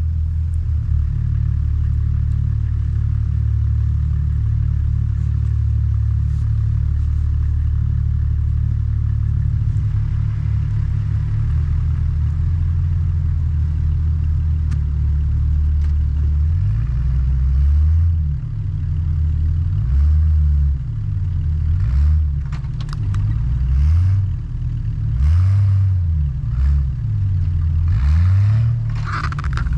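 A 4x4's engine running steadily, then from about halfway through revving up and dropping back again and again. Scattered sharp clicks and clatter come in over the last few seconds.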